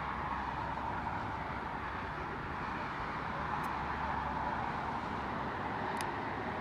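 Steady, distant jet engine noise: a continuous rushing hum with a low rumble, with two faint clicks near the middle and near the end.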